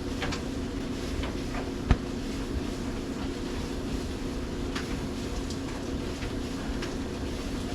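A steady mechanical hum over a low rumble, with a few light clicks and one sharp knock about two seconds in.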